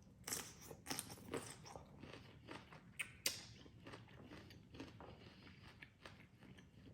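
Close-up crunchy chewing of a mouthful of raw onion from a spicy salad, in irregular crisp bites, the loudest crunches near the start and about three seconds in.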